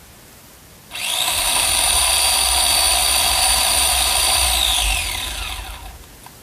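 Electric chainsaw starting about a second in, running at a steady high whine for about four seconds, then winding down with a falling pitch once the trigger is released.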